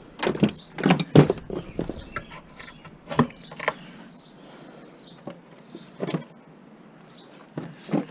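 Irregular clacks and knocks of hard plastic and metal parts being handled while electronics are taken apart for scrap. A quick cluster comes in the first second and a half, then single knocks every second or two.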